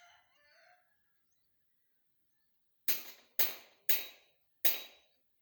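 A rooster crowing faintly, trailing off within the first second. Then four sharp strikes, a little under half a second apart, each with a short ringing decay.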